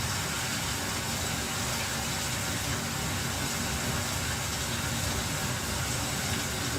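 Rain falling steadily, an even hiss with a low rumble beneath it.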